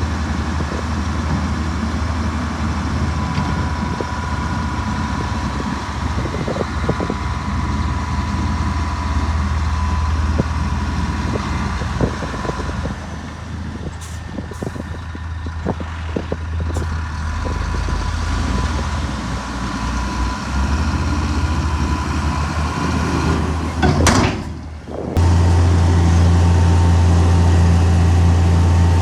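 Heavy diesel earthmoving machinery running with a steady low drone, with scattered clanks partway through. Near the end there is a brief loud burst of noise, after which the engine runs louder.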